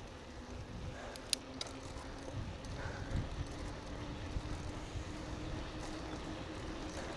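A bicycle being ridden: a steady low rumble of tyres and wind, a faint steady hum, and a few sharp clicks about a second in.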